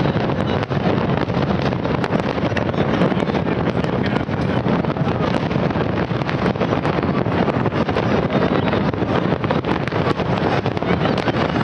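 Dense fireworks display going off continuously: a steady rumble with constant fine crackling, and wind buffeting the microphone.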